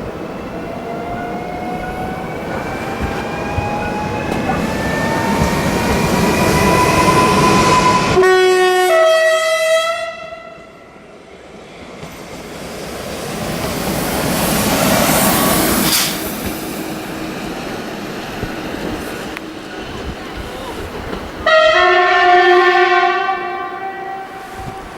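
A passing Koleje Dolnośląskie regional train, its motors whining and climbing in pitch as it speeds up over the rail noise. Partway through comes a short two-tone horn blast. The train's noise swells and fades, and a second, longer horn blast sounds near the end.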